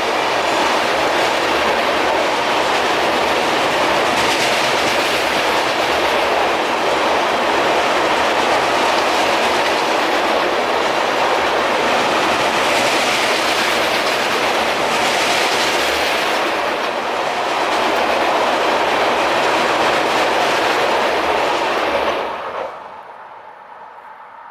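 Indian Railways express train passing close at high speed: a steady rush of wheel and rail noise with clickety-clack over the rail joints. The noise drops off suddenly near the end.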